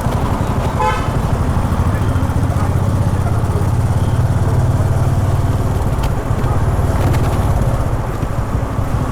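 Honda H'ness CB350's air-cooled single-cylinder engine running under way through traffic, its note swelling in the middle and easing off near the end. A short beep sounds about a second in.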